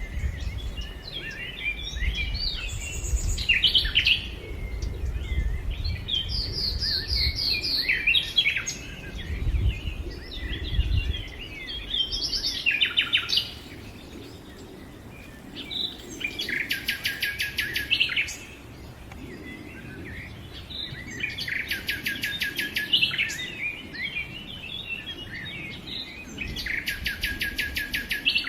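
Several small songbirds chirping and singing, with a fast trill of rapidly repeated notes, about two seconds long, three times in the second half. A low rumble underneath stops about halfway through.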